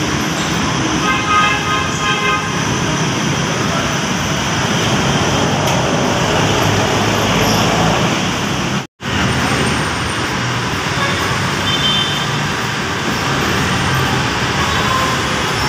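Busy city road traffic running steadily, with a vehicle horn sounding briefly about a second in and short horn-like tones again later. The sound cuts out for an instant about halfway through.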